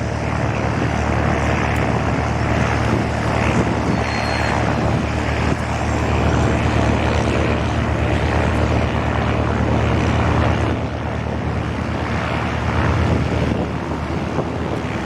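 Light propeller aircraft's piston engine running, a steady drone that eases slightly about ten seconds in.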